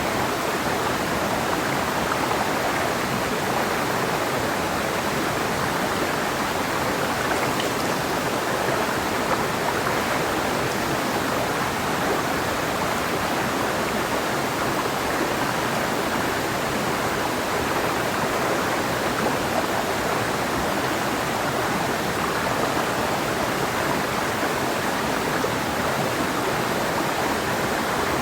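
Mountain river flowing over rocks: a steady, even rush of water that does not change.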